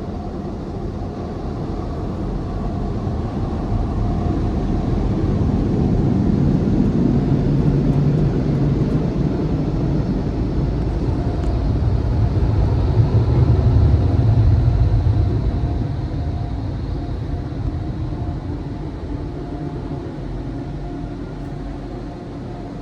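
Touch-free car wash air dryers blowing on the car, heard from inside the cabin: a steady rush of air that swells to its loudest past the middle and then eases off as the dryer pass moves on.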